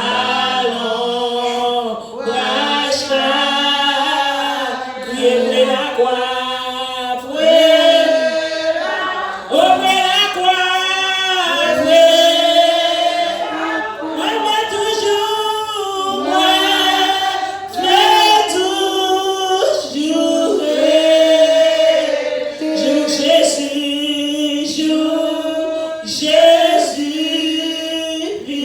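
A group of voices singing a French worship song, women's voices to the fore, with long held notes running one into the next.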